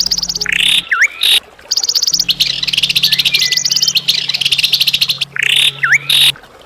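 Songbird singing a harsh, fast song: runs of rapid repeated high notes and chattering trills broken by sharp down-and-up whistled notes, in phrases with short pauses. A low steady hum sounds beneath, dropping out twice.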